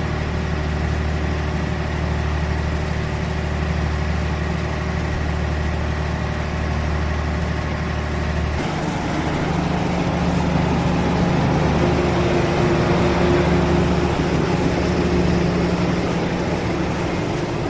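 Diesel locomotive engine running with a steady low hum. About eight and a half seconds in its note rises and grows a little louder as the engine is throttled up for departure.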